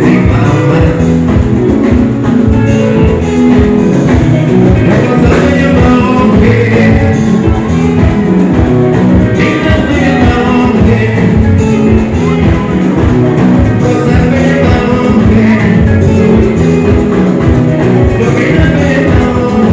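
Live band music played loud over a PA system: a steady beat with bass and guitar, and a voice singing at times.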